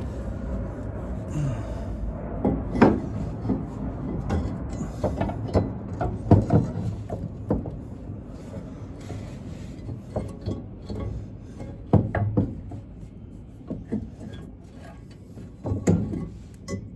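Exhaust manifold being lowered and jostled into place against a Dodge big-block engine: irregular metal knocks, clunks and scrapes as it is test-fitted.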